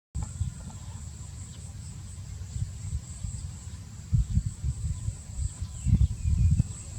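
Steady high-pitched insect drone, like crickets or cicadas, over low uneven rumbling that swells about four and six seconds in.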